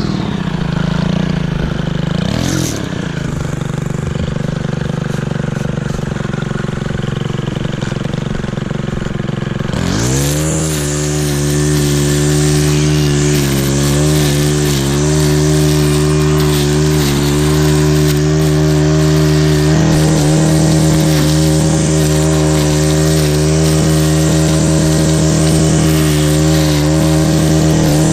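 Small gas engine running steadily at high speed. About ten seconds in its pitch dips and climbs back up, then holds steady.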